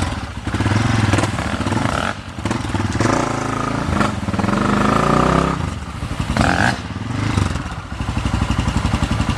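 Dirt bike engines running, with one revved up so its pitch rises steadily from about three seconds in to about five and a half seconds, and a short rev-up a second later.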